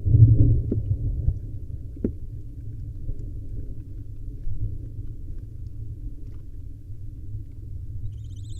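Low rumbling and thumping of barn owls shifting about on the floor of a wooden nest box, loudest at the start, with two sharp knocks in the first couple of seconds. A faint hissing owl call begins near the end.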